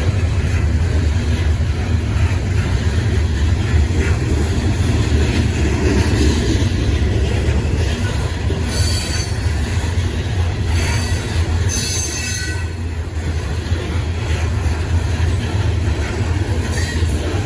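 Freight train cars rolling past with a steady rumble, and the wheels squealing briefly a few times near the middle and again near the end.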